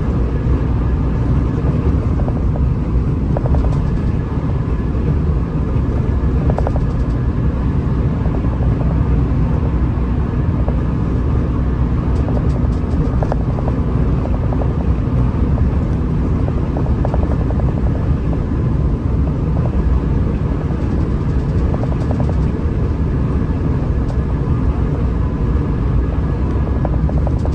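Hino RM 280 bus on the move: steady diesel engine drone with road and tyre rumble, holding an even pitch with no revving.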